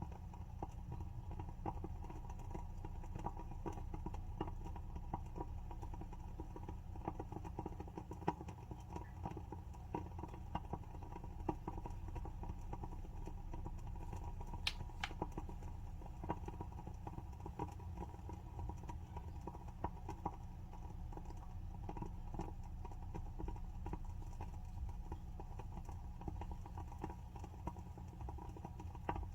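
WoodWick candle's wooden wick burning with a soft, irregular crackle of small pops, with one sharper pop about halfway through.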